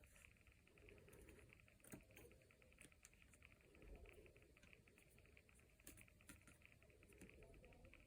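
Near silence: faint room hiss with scattered soft ticks and light patter.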